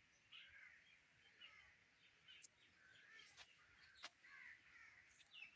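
Near silence with faint, scattered bird calls: short chirps every second or so, and a couple of faint clicks.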